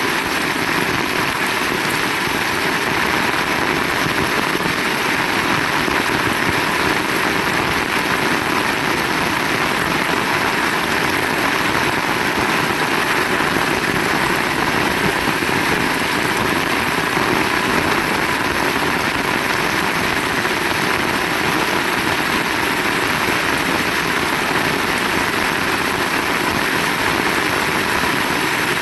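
Heavy rain pouring steadily, an even, unbroken rush of rain.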